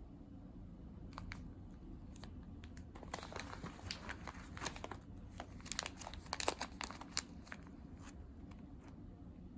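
Crinkling and rustling of a bag of green coffee beans being handled, with many small sharp clicks, thickest in the middle few seconds.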